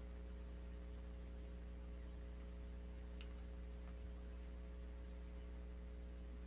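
Steady low electrical mains hum, with a single faint click about three seconds in.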